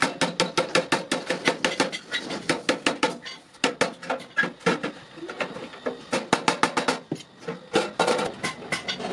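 Hammer striking iron in quick blows, several a second, with two short pauses.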